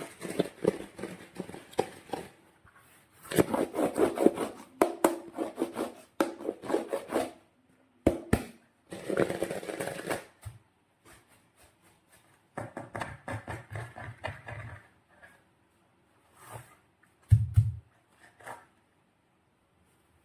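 Hands working slime and a rubber balloon: irregular squishing and rubbing sounds in short bursts, followed by a dull thump near the end.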